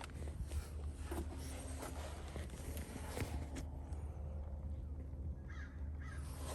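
A horse's hooves stepping and shuffling: a few faint, irregular knocks over a steady low hum.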